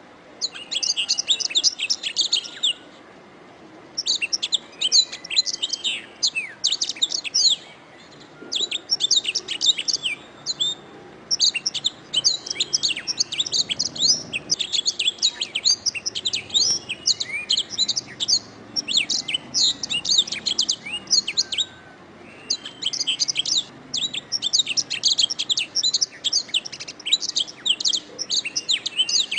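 Domestic canary singing: long, rapid phrases of high trills and chirps, separated by short pauses.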